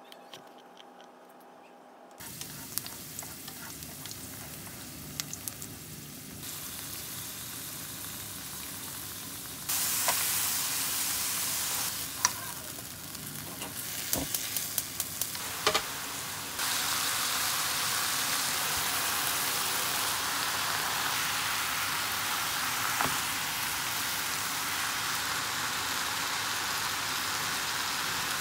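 Knife clicking lightly on a cutting board as garlic is sliced, then food sizzling in a frying pan as pork, carrot and garlic are stir-fried with chopsticks. The sizzle grows louder in steps, with sharp clicks of the chopsticks against the pan.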